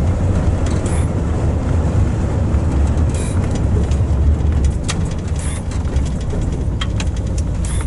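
Truck engine and road rumble heard from inside the cab while driving, with a few light clicks near the end.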